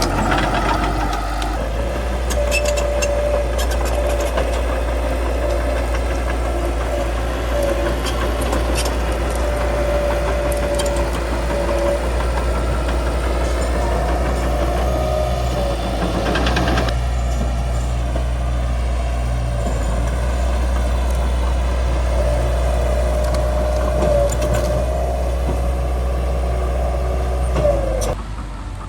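Bulldozer's diesel engine running with a steady low drone, over a wavering squeal and scattered clicks and cracks. The sound drops away sharply just before the end.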